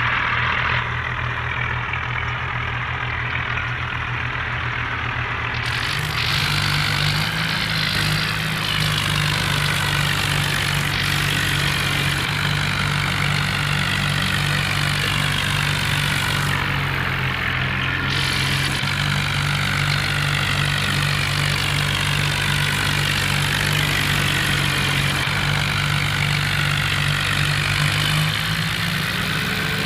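Tractor diesel engines running steadily, the engine note stepping up about six seconds in and shifting again a few times after.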